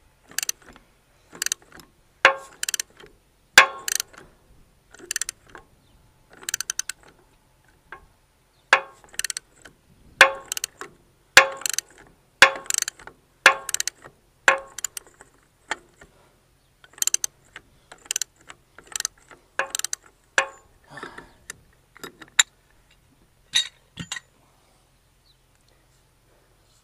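Hand ratchet wrench clicking in short repeated strokes as bolts are tightened, about one to two strokes a second, stopping near the end.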